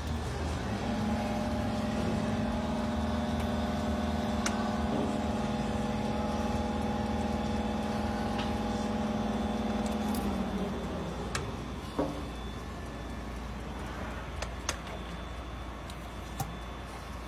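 Steady low drone of ship's engine-room machinery. A louder, steady-pitched machine hum starts about a second in and stops about ten seconds in, followed by a few sharp metallic clicks.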